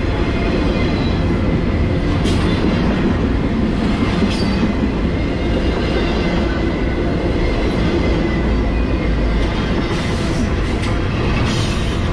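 Double-stack intermodal freight train rolling steadily past at close range: a continuous loud rumble of steel wheels on rail, broken by a few sharp clacks from the wheels.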